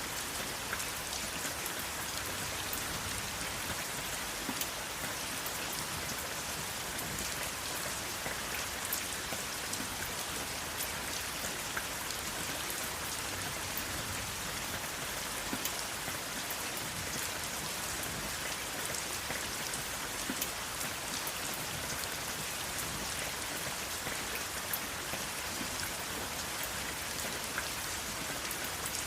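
Steady rain falling, an even hiss with many small sharp drop ticks throughout, without thunder.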